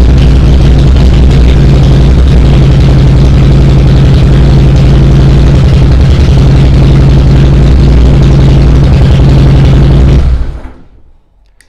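Harley-Davidson Heritage Softail's V-twin engine idling loudly and steadily with a deep, even exhaust rumble, still warming up after a cold start following about a month without being ridden. It shuts off about ten seconds in, and the sound dies away within half a second.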